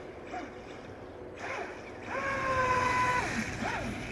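Speedboat running on a river, a steady rush of motor and water. Over it, about two seconds in, a long, slightly falling high call sounds for about a second, followed by a short rising-and-falling call near the end.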